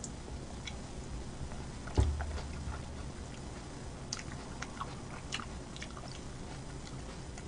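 Close-miked eating sounds: chewing with small scattered mouth clicks and crunches. A single dull thump about two seconds in is the loudest sound.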